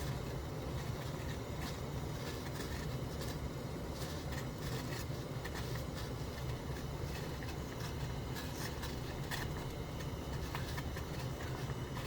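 Steady low rumble of a running vehicle, with scattered faint clicks.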